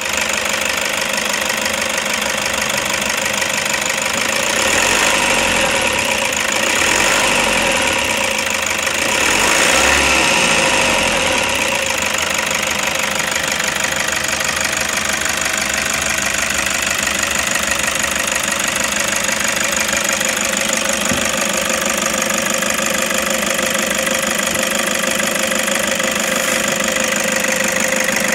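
Toyota Hiace 2KD 2.5 L four-cylinder turbo-diesel running at idle with a metallic vibrating noise. The owner traces the noise to the clutch release fork vibrating against metal while the clutch is engaged. The sound swells louder twice in the first half, then runs steady.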